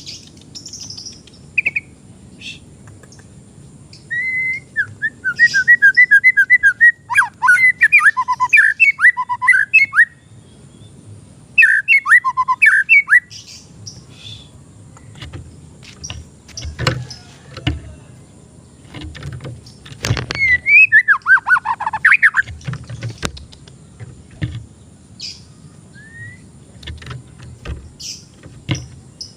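White-rumped shama (murai batu) singing in bursts of rapid whistled notes: a long phrase of fast repeated notes lasting several seconds, a short phrase after it, and a falling phrase about twenty seconds in, with scattered clicks between.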